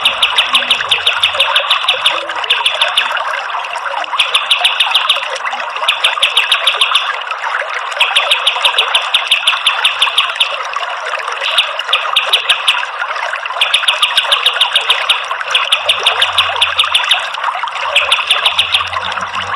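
Kapas tembak songbird giving bursts of very rapid, high-pitched repeated notes, the rapid-fire 'tembakan' song used as masteran for tutoring orange-headed thrushes (anis merah). Each burst lasts about a second, with short gaps between them, over a steady hiss.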